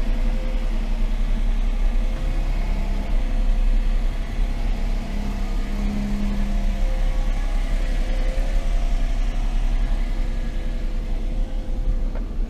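A Hyundai HB20 car running, a steady low engine rumble and hum.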